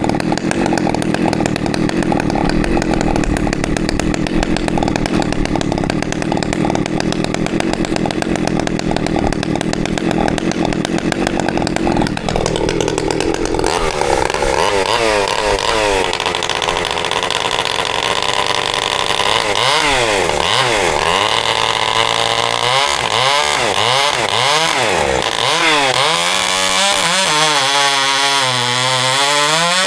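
Freshly rebuilt, ported Husqvarna 365 chainsaw with an expansion pipe, running. It holds a steady speed for about twelve seconds, then its revs rise and fall again and again.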